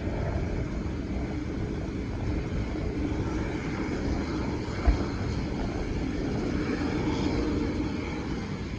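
Aircraft engines running steadily, their sound swelling slightly and then easing off near the end, with a single short thump about halfway through.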